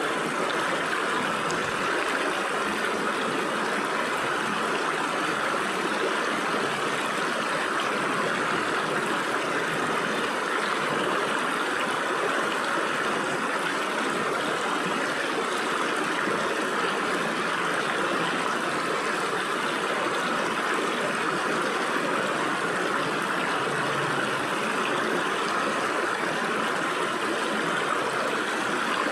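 Stream water flowing and splashing through gaps between rocks, a steady, even rush with no pauses.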